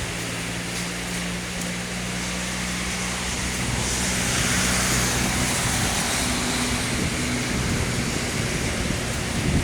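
Rain falling steadily, a constant hiss that swells for a couple of seconds mid-way. Underneath, a low engine hum holds steady and fades out near the end.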